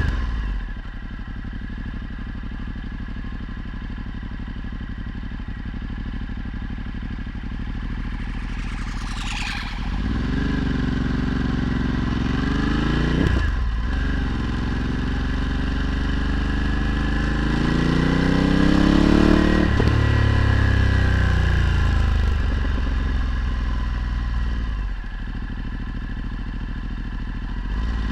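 Ducati Multistrada 1260's 1262 cc V-twin running through a Termignoni exhaust while riding. The engine note holds steady and low, then the revs climb hard about ten seconds in, break for a gear change a few seconds later, and climb again. Near the twenty-second mark it eases off to a steadier note.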